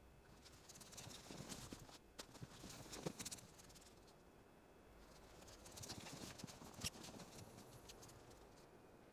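Faint crackling of a wood campfire, with scattered sharp pops in irregular clusters; the loudest snaps come about three seconds and seven seconds in.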